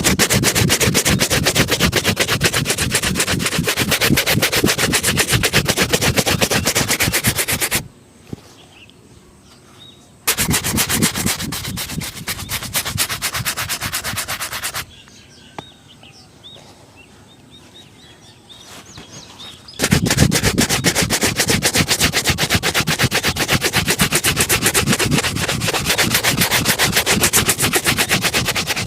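A polished shoe being buffed with fast, even back-and-forth strokes, in three bouts: a long one, a short pause, a shorter one, a longer pause, then strokes again until the end.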